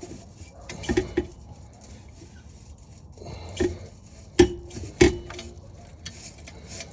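Metal clanks as a steel exhaust midpipe is worked loose from a tight joint on the downpipe. There is one sharp strike about a second in, then three more between about three and a half and five seconds, each ringing briefly.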